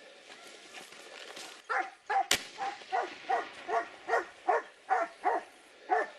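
Hunting dog barking in a steady run of about two to three barks a second, starting about two seconds in. A single sharp crack sounds just after the barking starts.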